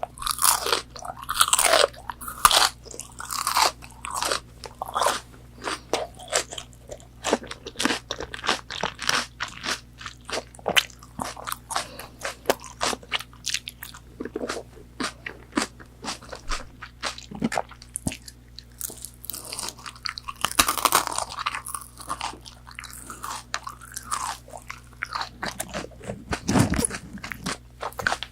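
Crunchy biting and chewing of fried McDonald's chicken nuggets, close-miked, as a dense run of crisp crackles and crunches, louder near the start and again about two thirds of the way through.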